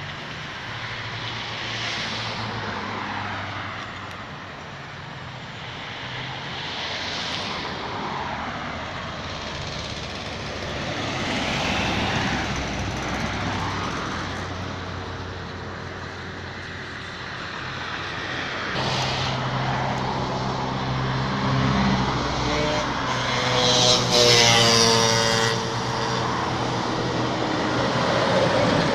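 Road traffic: vehicles pass one after another, each rising and fading. About two-thirds of the way in, a heavy vehicle's engine comes close and runs loud. Its loudest stretch, a strong tone, comes about 24 seconds in.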